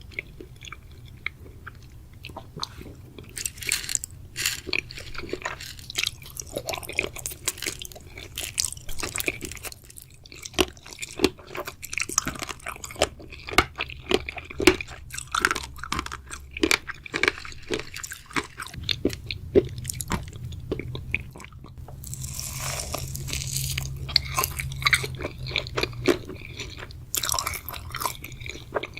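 Close-miked crunching and chewing of a crunchy chocolate snack, with many short crackly bites and chews throughout and a denser, louder stretch of crunching a little past two-thirds of the way through.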